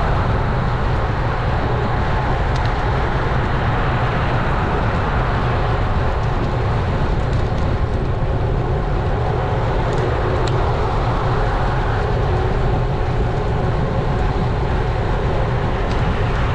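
Steady wind rush on an action camera's microphone while a road bike is ridden, with heavy low rumble from the moving air and the road.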